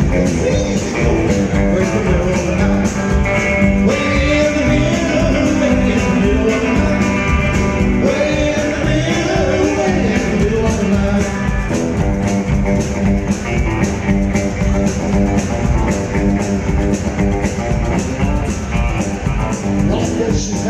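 Rockabilly band playing an instrumental break: a lead guitar line over a steady, driving beat.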